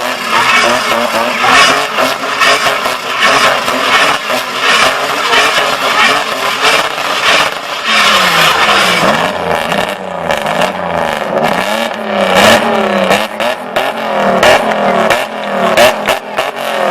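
Mini coupe's Renault 3.0 V6 revving hard during a freestyle run, with tyres squealing. In the second half the revs rise and fall over and over.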